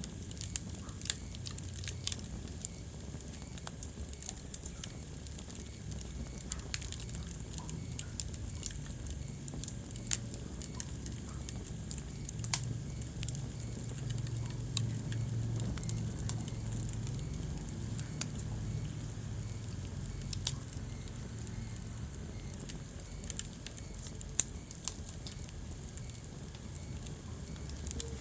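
Wood fire burning in a fireplace: irregular sharp crackles and pops over a low, steady rumble of flames that swells a little midway, with one louder pop near the end.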